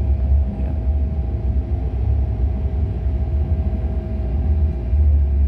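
Hong Kong Airport Express train running, heard from inside the passenger cabin: a steady low rumble with a faint steady whine above it.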